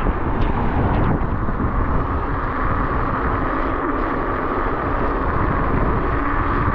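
Wind rushing and buffeting over the microphone of a moving electric scooter, a steady low rumble with a faint even hum from the motor and tyres underneath.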